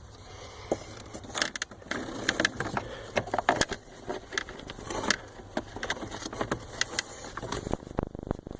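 Irregular scraping, rustling and small clicks of a cabin air filter being slid by hand into the plastic filter bay of a Jeep Wrangler.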